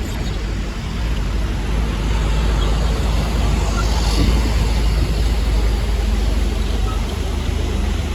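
Heavy diesel earthmoving machinery running steadily under work, a deep, continuous engine drone.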